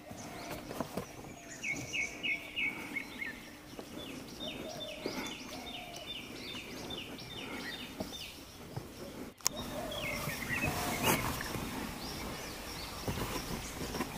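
Small birds chirping, with a run of about a dozen quick repeated notes around the middle, over a steady background hiss. There is a sharp click a little past halfway.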